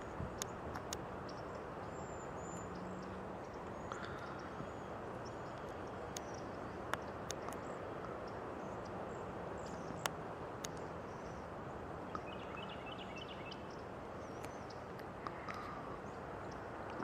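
Outdoor ambience: a steady background hiss with scattered short, high bird chirps and calls, including a quick cluster of chirps about two-thirds of the way through, and a few sharp clicks.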